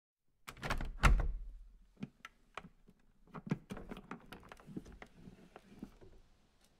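A series of irregular clicks and knocks on a wooden surface, loudest in a cluster about a second in, then lighter and more scattered. There is no steady vibration buzz yet.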